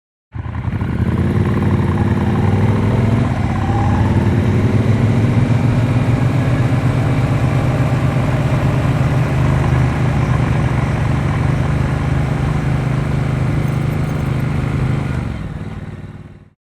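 Motorcycle engine pulling away, its pitch rising over the first few seconds, then running steadily at speed before fading out near the end.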